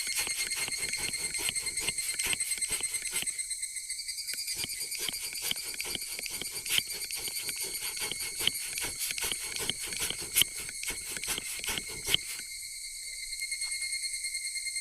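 Campfire wood crackling with a few sharp pops over steady, pulsing cricket chirping. The crackle cuts off near the end, leaving only the crickets.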